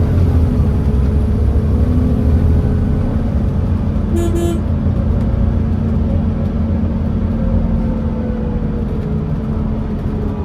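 Volvo D7C straight-six diesel of a Volvo B7TL double-decker bus heard from on board, running steadily under a thin whine from its cooling fans. A short horn-like toot sounds about four seconds in.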